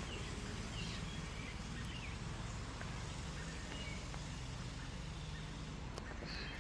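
Faint, steady hum of the mini bike's small engine running at a distance, under low outdoor background noise.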